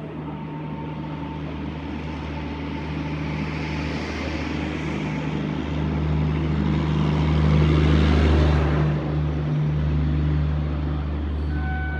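WAP-7 electric locomotive with its train passing close by: a steady low hum under a rumbling rush that grows to its loudest about eight seconds in, then eases.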